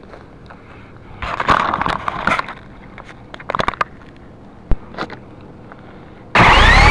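Scattered clattering and knocks, then about six seconds in the Syma S033G coaxial R/C helicopter's electric rotor motors start suddenly, with a loud whine that rises in pitch and settles into a steady tone.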